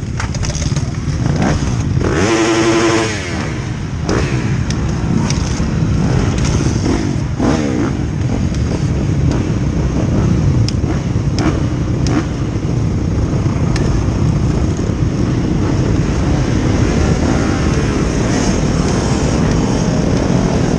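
A pack of motocross bikes running together, many engines overlapping and rising and falling in pitch, with one loud steady pitched tone for about a second near the start.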